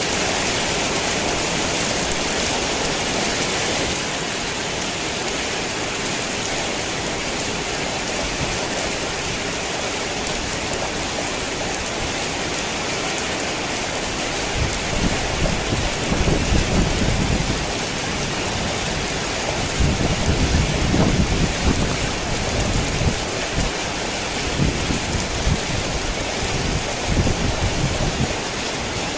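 Heavy rain pouring steadily, with low rumbles of thunder rolling in about halfway through and again twice near the end.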